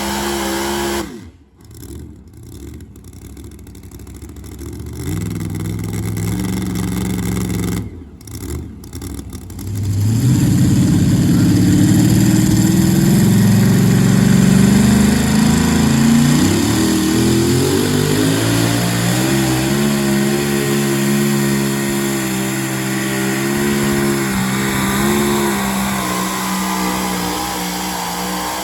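Super modified two-wheel-drive pulling truck's engine: revved and dropped back twice, then held loud at full throttle for most of the rest, the pitch climbing a little past halfway, as it works under load on a pull. It cuts off at the very end.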